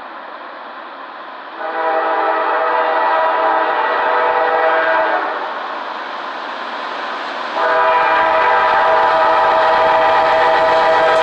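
Air horn of a CSX freight locomotive, the GE CW44AC leading the train, sounding two long chord blasts a couple of seconds apart, the second still held at the end. A train approaching rumbles underneath.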